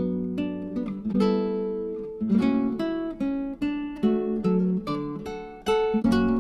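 Background music: an acoustic guitar strumming and plucking chords.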